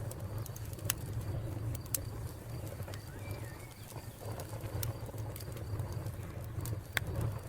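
Wood fire crackling, with sharp pops at irregular intervals over a steady low rumble of the flames. A faint high cricket trill runs underneath, and a short bird call comes about three seconds in.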